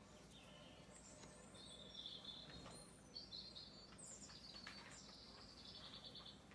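Faint birdsong: small birds chirping at a high pitch, with a quick trill of rapidly repeated notes near the end.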